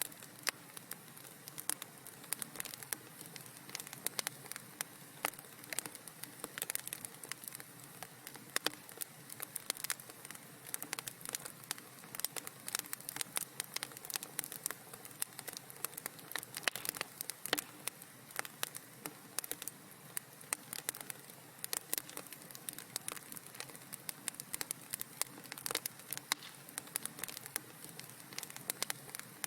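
Fireplace fire crackling: a steady stream of quick, sharp pops and snaps, several a second and irregular, over a soft hiss.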